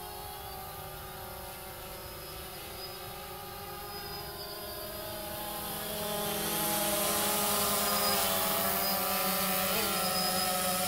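DJI Phantom 2 Vision quadcopter hovering, its four motors and propellers giving a steady buzzing whine of several pitches. The sound grows louder about halfway through.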